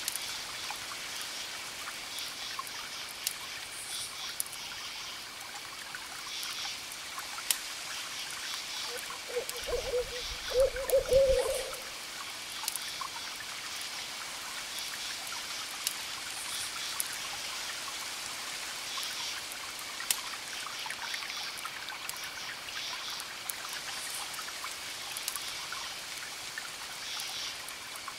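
Wood fire crackling with scattered sharp pops over a steady trickle of water and repeating high chirps. About ten seconds in, an owl gives a short low hoot in two parts, the loudest sound.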